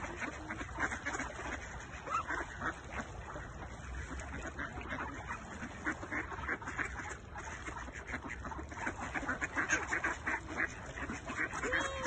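Several ducks quacking, with many short, overlapping calls in an irregular stream.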